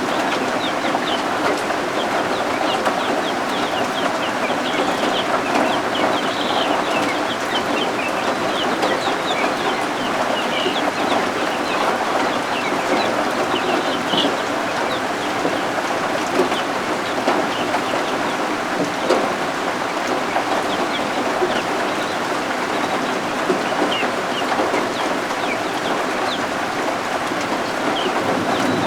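Baby guinea fowl keets peeping: many short, high chirps scattered over a steady rain hiss.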